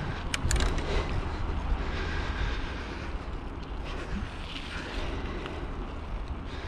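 Wind and road noise on the camera microphone of a moving bicycle: a steady low rumble of wind buffeting, with a few sharp clicks about half a second in.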